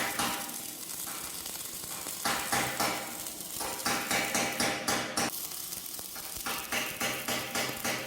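Welding on the steel plate of a wood-burning stove body, a crackling, frying hiss that comes in bursts of about a second with short pauses between them.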